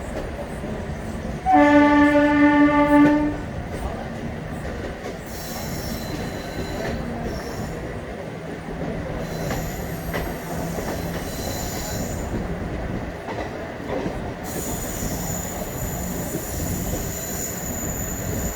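The WCAM2 electric locomotive's horn sounds one steady blast of nearly two seconds, about a second and a half in, over the steady rumble of ICF coaches running on the track. A thin high squeal from the wheels joins in the last few seconds.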